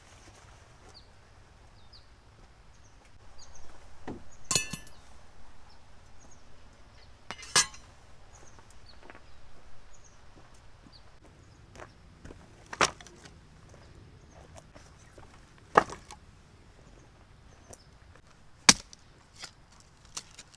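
A series of sharp knocks, five loud ones a few seconds apart, with smaller clinks and taps in between.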